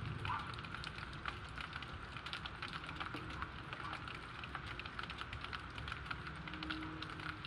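Steady rain falling, with a dense patter of sharp ticks from drops striking close by. A low rumble dies away just as it begins.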